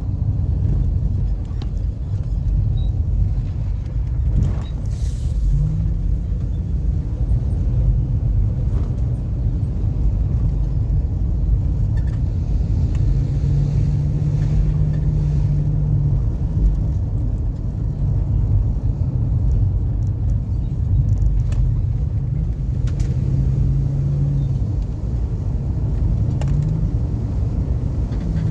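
A car on the move: a steady low road and engine rumble, with a steady engine note rising into it now and then for a few seconds at a time.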